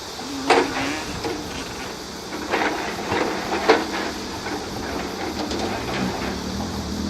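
Motocross dirt bike engines running, with three sharp loud bursts in the first four seconds and a steadier low engine note coming in near the end.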